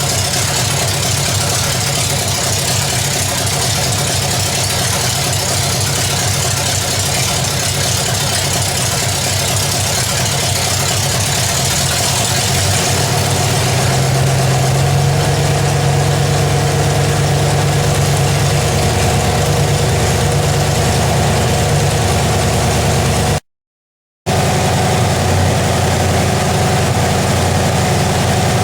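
Small-block Chevy 350 V8 with an RV cam, breathing through upright headers, running at a steady idle. About halfway through the idle rises slightly and gets a little louder; near the end the sound cuts out for about a second, then resumes.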